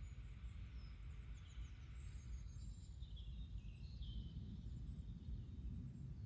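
Faint garden ambience: small birds chirping and twittering in short high calls, over a low steady outdoor rumble.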